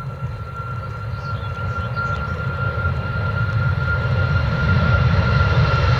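Boeing 777-200LRF freighter's twin GE90 turbofans at takeoff power, a low rumble with a steady high whine, growing steadily louder as the jet approaches on its departure.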